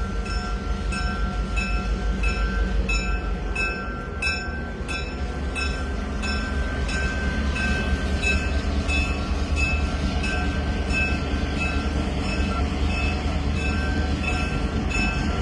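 Train on the Nickel Plate line rolling past with a deep, steady rumble. A short high ding repeats about twice a second over it.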